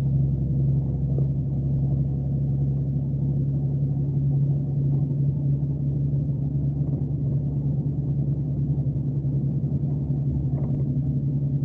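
Scania K370C coach's 13-litre inline-six diesel engine running at steady revs under way, heard on board the bus as a constant low drone.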